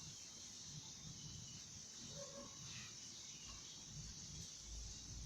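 Faint room tone: a steady low hiss and a soft low rumble, with no distinct sound event.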